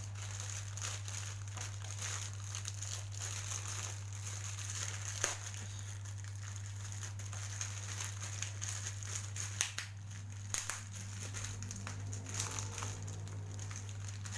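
Parcel packaging being crinkled, rustled and pulled at by hand as it is opened, with irregular sharp crackles; it is hard to get open. A steady low hum runs underneath.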